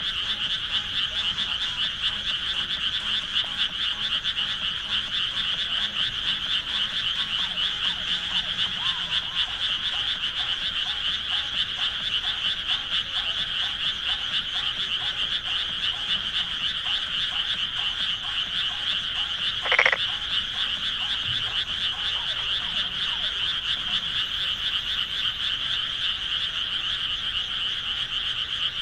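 Dense, steady chorus of many frogs calling at once from flooded rice paddies. About two-thirds of the way in, one brief, louder call rises over it.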